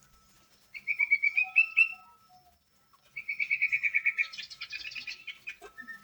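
Sooty-headed bulbul (kutilang) singing: a quick run of rapidly repeated whistled notes about a second in, then after a short pause a longer rapid trill that breaks into higher chattering notes.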